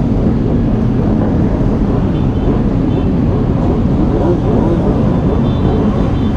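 Motorcycle running steadily under way, engine and road noise filling the low end.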